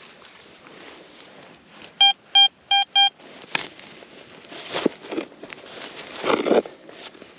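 Garrett Vortex VX9 metal detector sounding four short, identical beeps in quick succession over a buried target, followed by scuffing and thudding ground noises.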